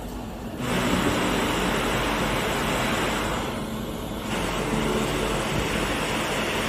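A steady rushing noise, like blowing air, starts about half a second in, dips briefly near the middle and then resumes.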